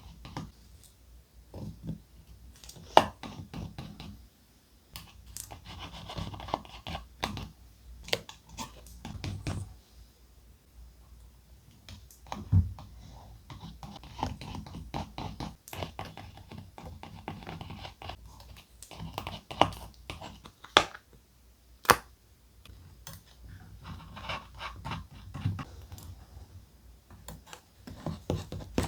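Thick paper being handled for a scrapbook journal: patches of rustling and crinkling broken by many scattered sharp taps and clicks.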